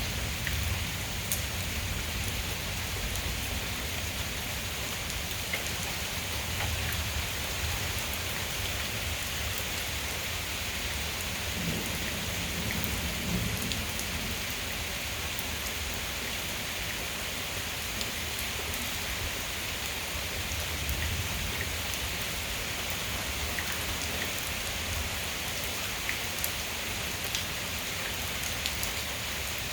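Heavy thunderstorm rain falling steadily, with scattered drops tapping a nearby surface. A brief low rumble comes about twelve seconds in.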